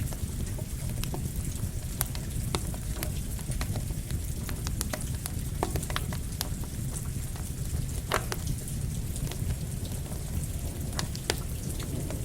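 Campfire crackling with irregular sharp pops and snaps, mixed with steady rain.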